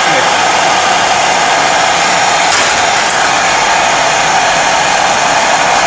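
Loud, steady hiss of a compressed-air tool running without a break, as in sandblasting small parts.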